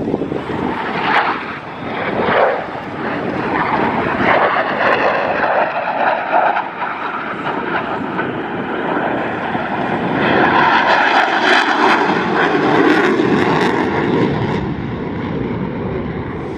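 Jet noise from the Blue Angels' F/A-18 Super Hornets making low passes: a continuous loud roar that swells to its loudest from about ten to fifteen seconds in, then eases off.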